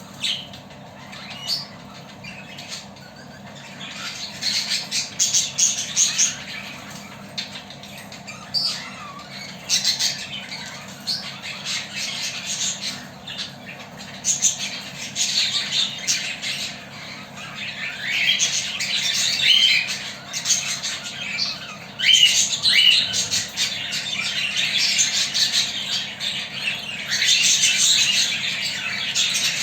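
Budgerigars chattering and chirping in irregular bursts, getting busier and more continuous in the second half.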